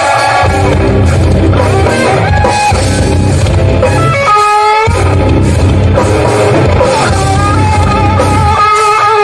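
Live hardcore band playing loud: distorted electric guitars over bass and drum kit. The bass and drums drop out for about half a second midway, leaving the guitar ringing, then the full band comes back in.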